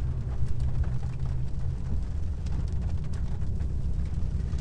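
Steady low road and engine rumble of a car driving, heard from inside the cabin, with faint scattered taps of rain on the car.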